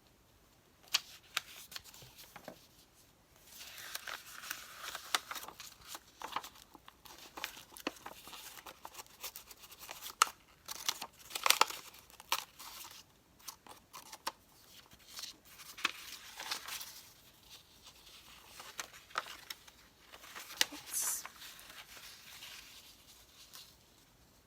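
Paper being handled, cut and torn at close range: irregular crinkling and tearing swells mixed with sharp little clicks.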